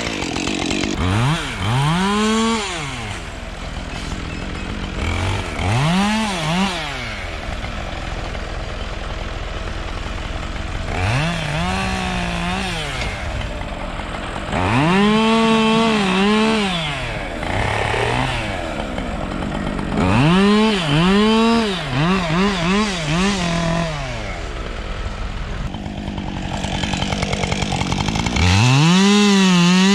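Gas chainsaw revving up and dropping back to idle again and again while cutting up storm-broken limbs. There are about six bursts of throttle, with a run of quick blips a little past the middle and a long held rev near the end.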